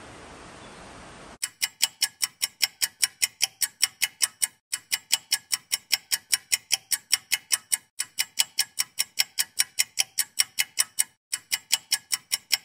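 Faint steady background hiss, then an abrupt switch about a second and a half in to an edited-in clock-like ticking, about four to five sharp ticks a second with short breaks every three seconds or so, laid over the footage as a suspense effect.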